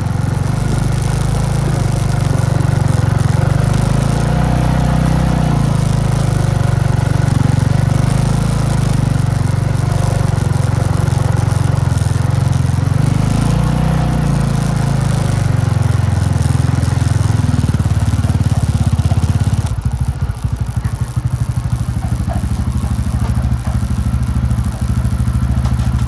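Motorbike engine running steadily under load on a mountain road. About twenty seconds in, the engine note drops and turns into an uneven, choppier throb.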